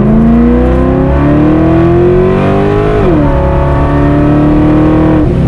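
Loud-exhausted Corvette V8 at full throttle, its pitch climbing steadily. It shifts up once about three seconds in, pulls on in the next gear, and falls off near the end as the throttle is lifted.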